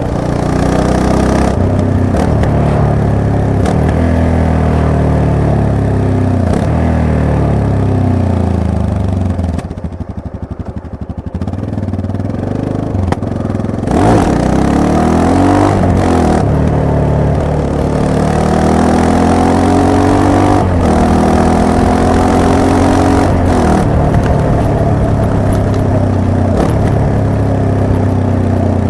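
Yamaha MT-03 motorcycle engine under way, its revs repeatedly rising and falling as the throttle opens and closes and the gears change. The engine drops to a quieter stretch about ten seconds in, then revs sharply back up a few seconds later.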